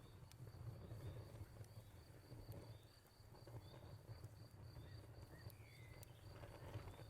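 Crickets chirping in a steady, evenly pulsed high trill, over a soft crackling fire with a few sharp pops. Occasional short bird chirps and one gliding call come in about halfway through.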